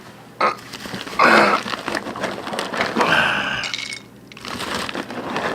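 Dry pet food being poured and handled, with several rattling, crackling bursts. The loudest comes about a second in, and there is another about three seconds in.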